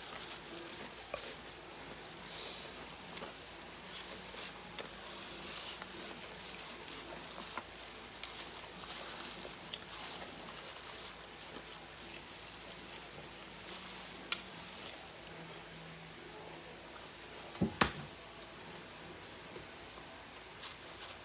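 Close-up eating of breaded fried chicken: crackly chewing and mouth sounds, with gloved fingers pulling the chicken apart, and many small clicks. Two sharp clicks stand out about three-quarters of the way through.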